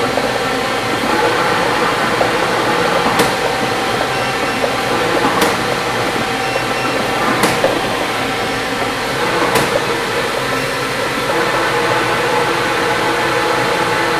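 Lottery ball-draw machine mixing the numbered balls: a steady rushing noise with a sharp click about every two seconds.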